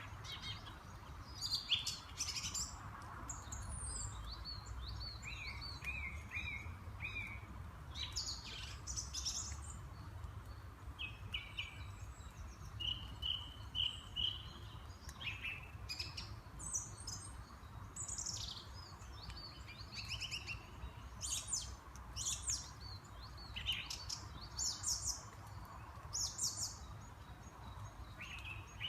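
A chorus of small songbirds chirping and singing, with many short, quick calls overlapping throughout, over a steady low rumble of distant traffic.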